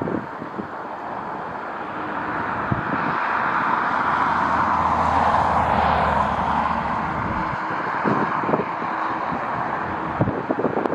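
Jet airliner passing close by on landing: a loud rushing engine noise that swells to a peak about halfway through and then fades away. Gusts of wind buffet the microphone near the end.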